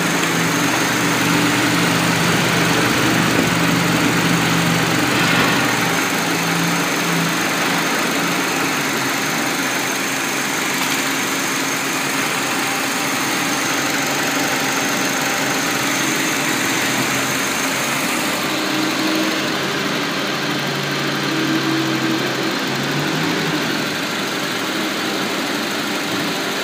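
Honda FR-V's 2.0-litre K20A four-cylinder petrol engine idling steadily, heard up close in the open engine bay.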